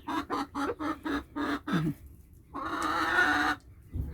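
Chicken hen clucking in a quick run of short notes, about five a second, then after a brief pause one long drawn-out call.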